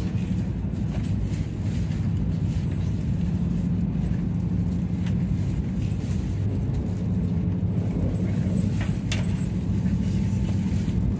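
Steady running noise inside a Tohoku Shinkansen car at speed: a constant low drone with a hiss above it, and a few light clicks about nine seconds in.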